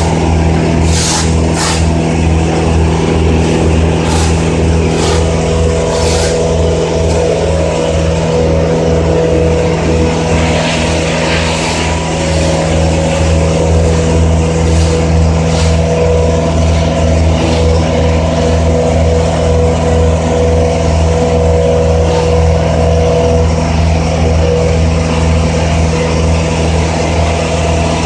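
An engine running steadily at a constant speed, loud and even throughout, with a few sharp clicks or knocks in the first few seconds.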